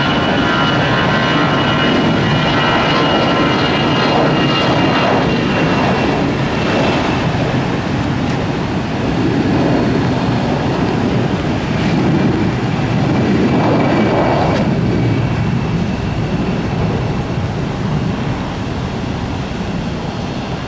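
Airbus A321 jet engines at takeoff power: a loud, steady rumble with a faint high whine, easing off slowly near the end.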